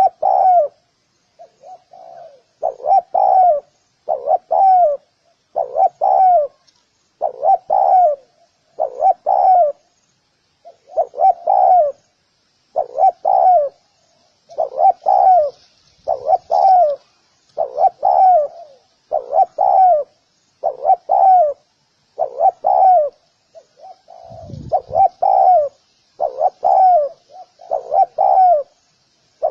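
Spotted dove cooing over and over, each phrase a short run of coos repeated about every second and a half. Faint chirping of small birds sits behind the cooing, and there is a brief low thump about 24 seconds in.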